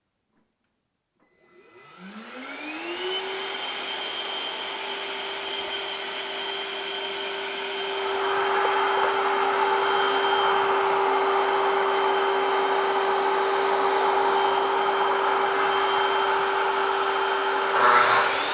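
A power tool's electric motor spins up to a steady whine and runs at constant speed. From about eight seconds in, a louder rushing noise joins it, and both cut off near the end.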